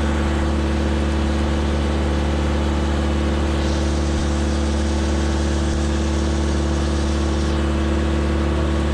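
A boat lift's engine running steadily at a constant speed, with an even pitched hum. A band of hiss rises over it from about three and a half seconds in to about seven and a half seconds in.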